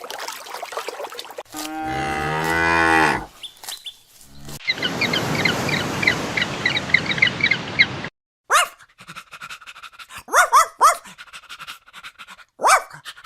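A cow moos once, a long low call, about one and a half seconds in. It is followed by a stretch of rapid high chirps and then a few short, sharp falling calls from other animals.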